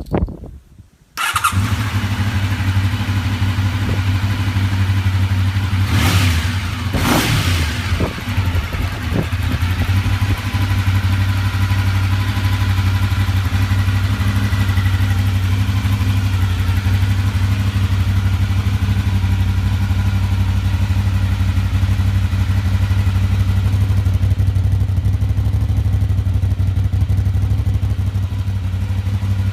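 1986 Honda VFR750's V4 engine catches about a second in and runs. It is revved briefly twice around six to seven seconds in, then settles to a steady idle.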